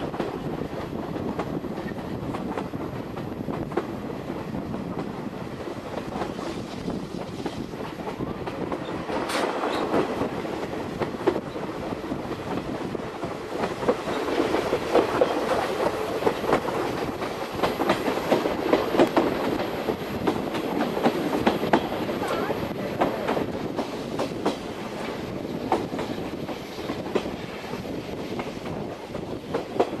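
Steam-hauled passenger train of the Oigawa Railway running along the line, heard from aboard the coach: a steady rolling rumble with the wheels clattering over rail joints. The clatter is louder for a stretch in the middle.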